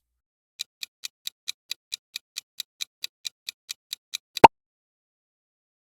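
A clock-style countdown timer sound effect ticking evenly, about four to five ticks a second, for about four seconds. It ends in one short, louder tone that marks time up for the answer.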